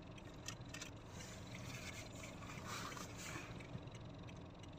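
Faint steady hum of a car idling in stop-and-go traffic, heard from inside the cabin. Light clicks come through it, and a soft hiss rises and fades in the middle.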